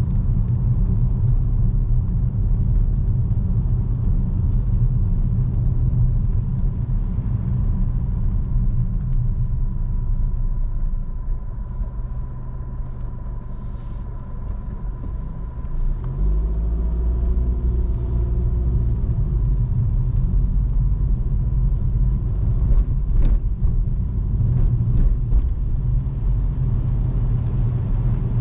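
Car driving, with a steady low rumble of engine and road. About halfway through the rumble eases for a few seconds, then the engine note rises as the car pulls away again.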